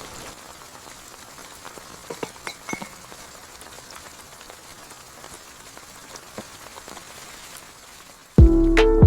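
Steady rain falling, an even hiss with a few separate drops ticking. About eight seconds in, music starts suddenly and much louder.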